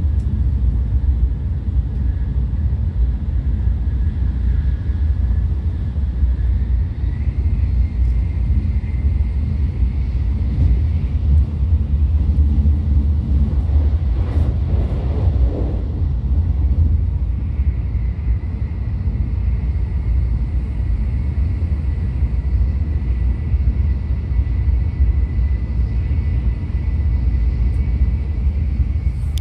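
Steady low rumble inside the passenger cabin of an N700A Shinkansen running along the line, with a faint steady high whine over it.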